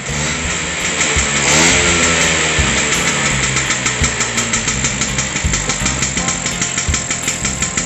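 Vespa Super's two-stroke single-cylinder scooter engine running, with the revs rising briefly about a second in.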